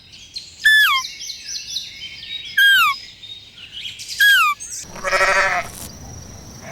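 Birds calling: three loud, short calls, each falling in pitch, about two seconds apart, over a chorus of smaller chirps. About five seconds in comes a short, wavering bleat.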